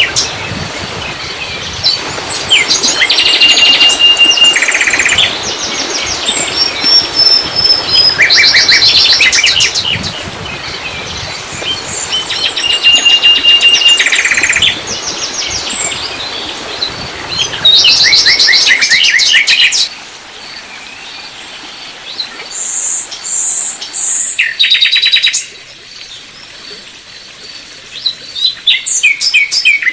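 Songbirds singing: repeated bursts of rapid, high trilled notes every few seconds. A steady rushing background under the first two-thirds drops away partway through.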